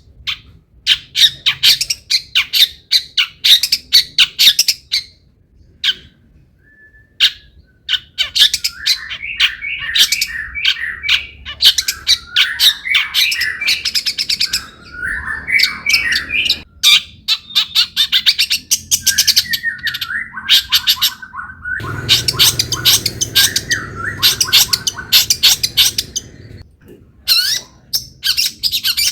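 Long-tailed shrike (cendet) in full song: a rapid, scratchy chatter of varied notes and harsh squawks, packed with mimicked phrases. It breaks off briefly about six seconds in and again near the end.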